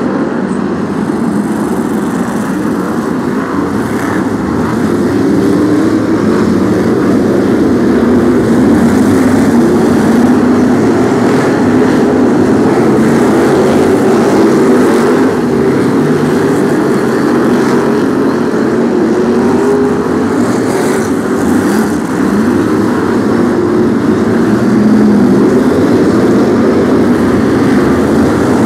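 Brisca F1 stock cars' V8 engines racing, a loud continuous engine drone whose pitch rises and falls as the cars accelerate and lift.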